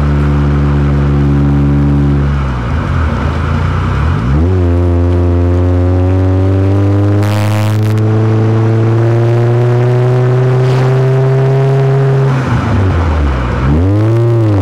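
Supercharged Honda CR-Z Mugen RZ engine pulling under acceleration, its pitch climbing steadily. The revs drop and pick up again about two seconds in and again near the end, as at gear changes. A short hiss comes about seven seconds in.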